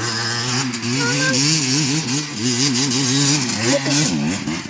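Motocross dirt bike engine revving, its pitch rising and falling over and over as the throttle is worked, dipping briefly near the end.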